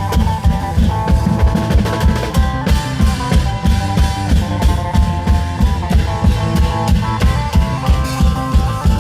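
Isan klong yao long-drum band playing an instrumental: a fast, steady drum beat with a melody line over it.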